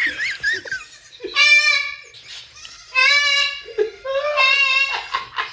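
Three loud, wavering goat-kid-style bleats, each about a second long, with a few short chirpy squeaks in the first second.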